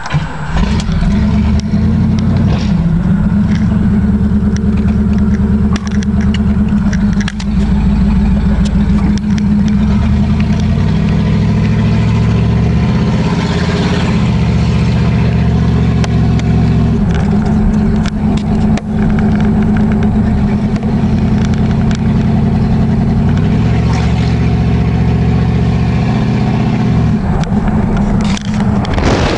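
A 1968 Pontiac LeMans engine starting on the key, then running loudly as the car drives off, heard from inside the cabin. The engine note rises and drops several times as the car accelerates and eases off.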